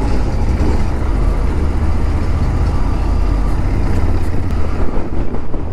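Royal Enfield Interceptor 650's 648 cc parallel-twin engine and exhaust, fitted with dB killers, running at a steady speed on the road, a deep, even rumble.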